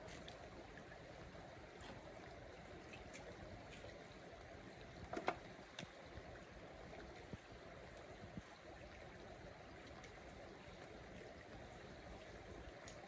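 Stream water flowing steadily, with a few faint knocks, the clearest about five seconds in.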